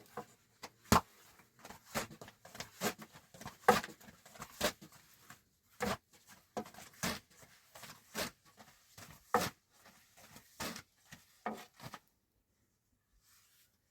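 Irregular clacks and knocks of hard objects being handled, about one or two a second, with light rubbing between them, stopping abruptly near the end.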